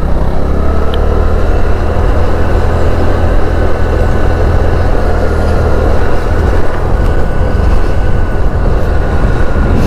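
Motorcycle running steadily while being ridden, its engine and road noise a constant low rumble.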